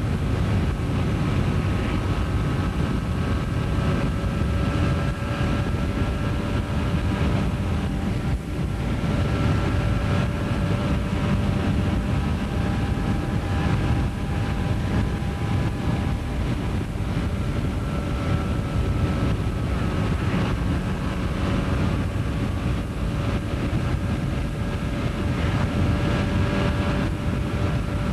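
Motorcycle running at riding speed, a steady low engine rumble mixed with wind noise on the microphone.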